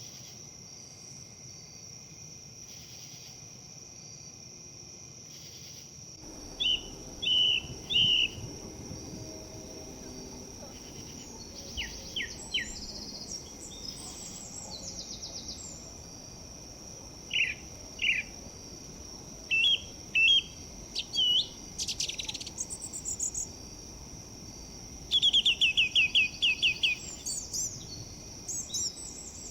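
Songbirds chirping and calling again and again from several seconds in, with a fast trill near the end, over a steady high insect drone. A soft hiss of wind in leaves lies underneath.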